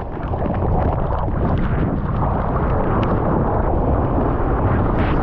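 Strong wind buffeting an action camera's microphone, a loud, low, continuous rumble that grows louder about a second in and then holds.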